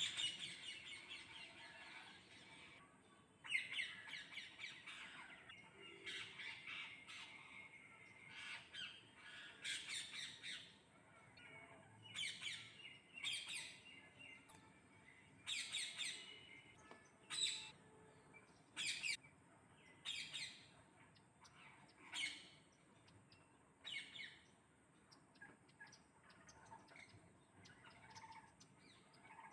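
Parrots calling in short, repeated squawks and chirps, busy in the first half and thinning out toward the end.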